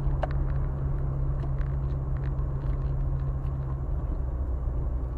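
Car engine and road noise heard from inside a moving car: a steady low drone whose pitch shifts about four seconds in.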